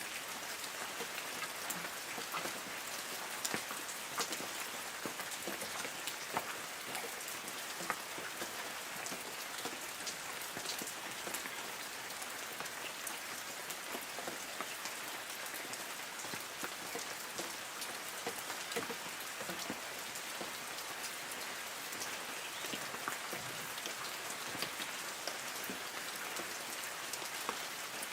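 Light rain falling steadily on forest trees: a continuous patter with many separate drops ticking on leaves.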